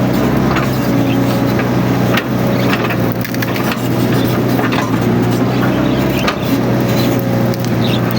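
Mini excavator's diesel engine running steadily, with a faint wavering whine above it, while woody scrub cracks and snaps as the machine clears it.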